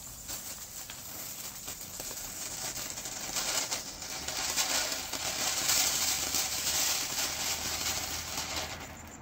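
Small cone fountain firework (BOOMER Conic No. 3) spraying sparks: a hissing crackle that builds up over the first few seconds, holds, then dies away near the end as the fountain burns out.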